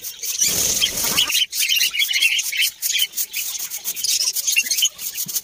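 Broom sweeping a floor in quick, repeated scratchy strokes, with a brief low rumble about half a second in.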